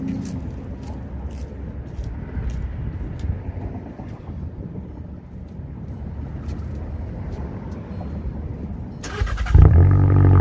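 Low rumble with faint clicks, then near the end the straight-piped 2014 Volkswagen Jetta's 1.8-litre turbo four-cylinder cranks and fires on a cold start. It catches with a sudden loud flare and settles into a loud, steady, raspy drone from the open exhaust.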